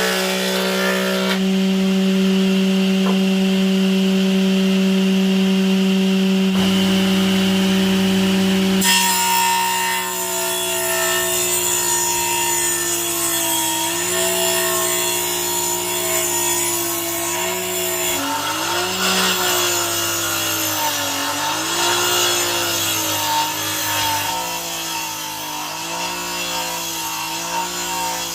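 Power saw cutting wood. Its motor runs at a steady high speed, and in the second half the pitch dips and recovers again and again as the blade bogs down in the cut.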